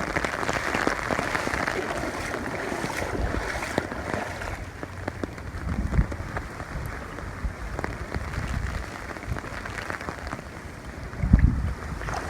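Heavy rain falling on an umbrella in strong wind, with gusts buffeting the phone's microphone in a few low thumps, the strongest near the end.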